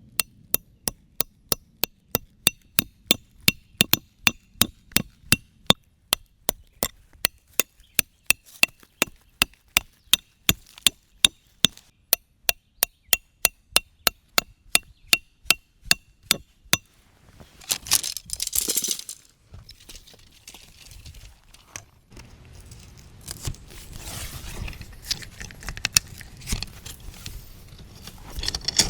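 Repeated hammer strikes with a clinking metallic ring, about three a second in a steady rhythm, stopping about 17 seconds in; rustling and handling noise follow.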